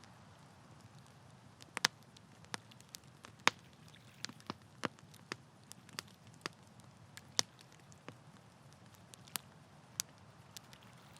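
Wood campfire crackling: irregular sharp pops and snaps, a few much louder than the rest, over a faint steady low background.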